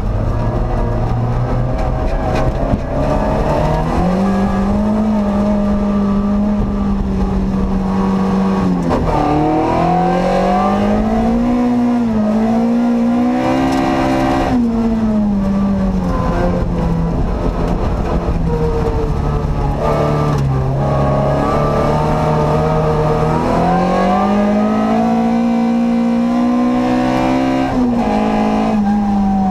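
Ford Ka rallycross car's 1.6-litre four-cylinder engine, heard from inside the cabin, revving hard and repeatedly climbing in pitch then dropping sharply at gear changes and lifts off the throttle.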